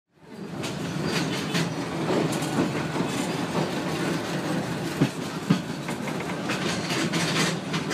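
Passenger train of Myanma Railways running, wheels clacking and knocking over the rail joints amid a steady rumble and rattle, with two sharper knocks about five seconds in. The sound fades in at the start.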